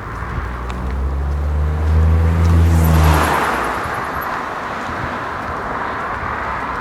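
A car passes close by: its engine hum builds over about two seconds, the tyre rush is loudest about three seconds in, and the sound fades away as it moves off.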